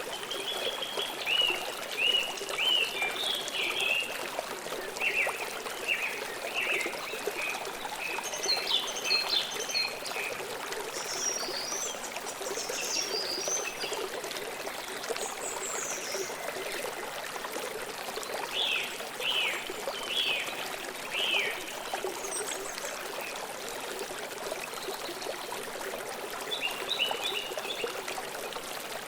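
River water flowing steadily over rocks, with small songbirds chirping in short bursts of quick repeated notes several times over it.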